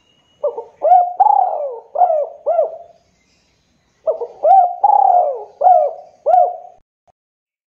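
Spotted dove (tekukur) cooing: two phrases of about five low coo notes each, a little over a second apart.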